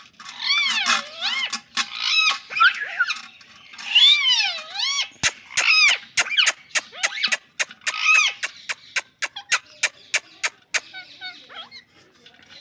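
Ringneck parakeet calling: warbling squawks that swoop up and down in pitch, then from about five seconds in a fast run of sharp clicks, around three a second, with short calls mixed in, ending in quieter chatter near the end.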